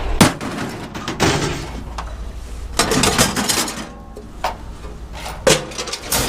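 Scrap metal being thrown about and unloaded, clanking and banging in a series of irregular knocks and clatters.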